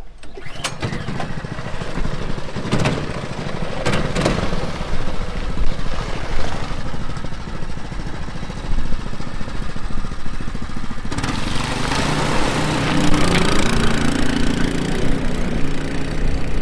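Small gas engine of a Mud Skipper mud motor running hard under load as the boat is pushed for a top-speed run. About eleven seconds in the engine note rises and a louder rushing noise builds.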